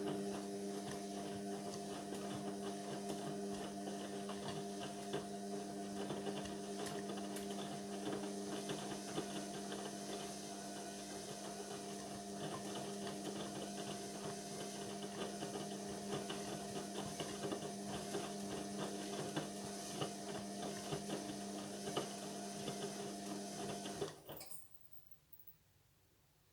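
Indesit washing machine's drain pump running with a steady hum, then stopping about 24 seconds in.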